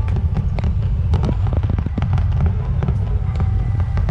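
Fireworks display: many sharp cracks and pops going off in quick, irregular succession over a steady low rumble.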